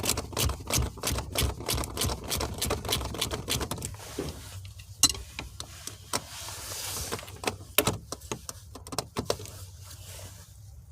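Hand tools working on car interior parts: a fast run of clicks and rattles for about four seconds, then scattered louder knocks and clicks.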